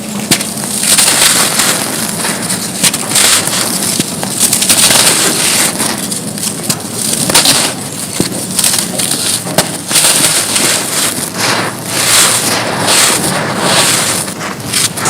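Gritty, dry mud chunks being crushed and crumbled: a dense, continuous crackling crunch, dotted with many sharper crunches.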